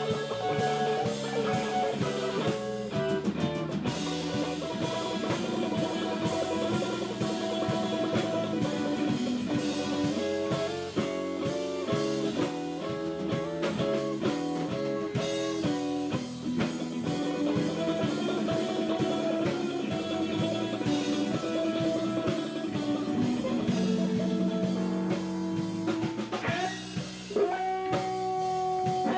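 Live blues-rock instrumental by a guitar, bass and drums trio: a busy guitar lead over bass and a drum kit. Near the end the guitar holds one long note that bends in pitch.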